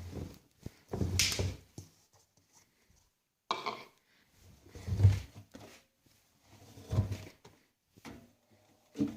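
AEG Öko-Lavamat 88840 washing machine with its drum turning slowly after the spin, the laundry dropping inside with a muffled thud about every one to two seconds.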